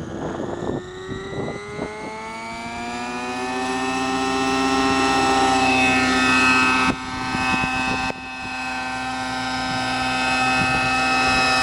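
Small fuel engine of a model helicopter spooling up, its high whine rising in pitch over the first few seconds and then running steadily. It sounds like a weed whacker, with two brief dips in level in the second half.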